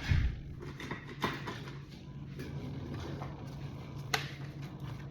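Kitchen handling sounds as barbecue sauce goes onto chicken: a low thump at the start, then a few sharp clicks and light taps of utensils. Underneath runs a steady low hum, fitting the air fryer running.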